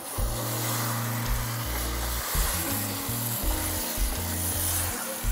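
Chicken and potatoes frying in oil and ghee in a stainless steel pot, sizzling steadily while a wooden spoon stirs and scrapes through them. Background music with low held notes plays under it.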